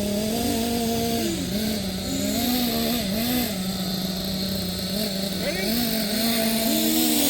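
Small nitro glow-fuel engines of radio-controlled monster trucks running and revving, the pitch rising and dropping again and again as the throttle is worked.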